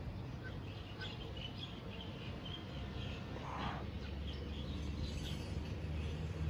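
Outdoor ambience with small birds chirping in short repeated calls over a steady low rumble.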